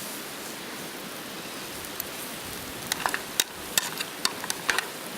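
Pork steaks sizzling steadily on a grill. About three seconds in comes a quick run of sharp clicks and taps, roughly eight of them in two seconds.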